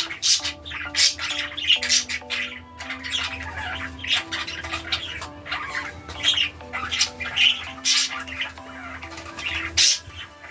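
Pet budgerigars chattering with many short, sharp squawks and warbles, over background music of slow, held notes.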